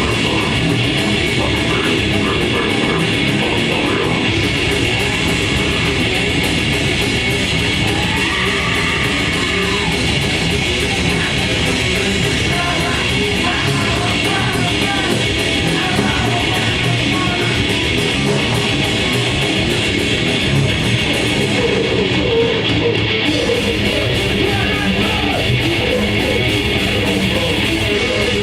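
Grindcore band playing live at full volume: heavily distorted electric guitars over fast drums, a dense, unbroken wall of sound.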